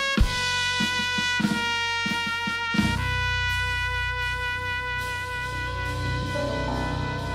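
A live band playing an instrumental passage: brass, led by trumpet, holding long notes over drum-kit hits, then settling into a sustained chord over a steady bass line about three seconds in.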